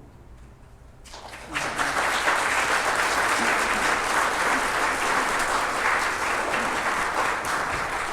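Congregation applauding after a choir and orchestra piece, starting about a second and a half in and going on steadily.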